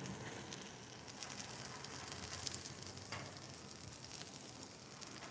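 Chicken thigh pieces sizzling faintly on a hot flat-top griddle, a steady crackle with a couple of light clicks about halfway through.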